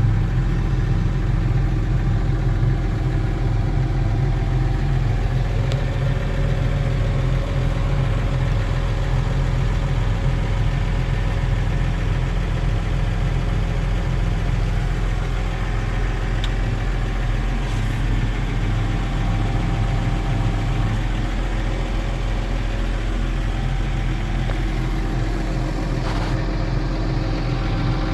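2013 Case IH Puma 200 CVX tractor's six-cylinder diesel engine idling steadily.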